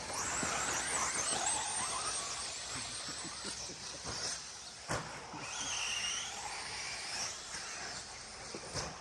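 Several 1/10-scale short course RC trucks racing, their electric motors whining high and rising and falling as they speed up and slow down. A few sharp knocks come from the trucks, the loudest about five seconds in and another near the end.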